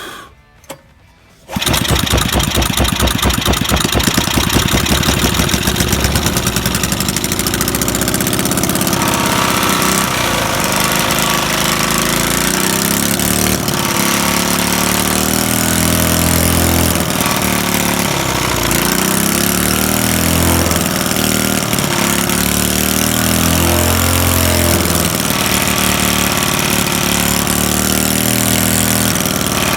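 Small single-cylinder engine of a Sears pressure washer starting about a second and a half in, then running with its speed rising and falling, while a joint stuck in its carburetor intake is drawn in.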